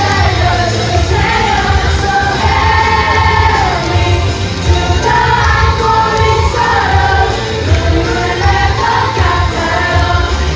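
A group of children singing a K-pop song over a loud pop backing track with a steady bass.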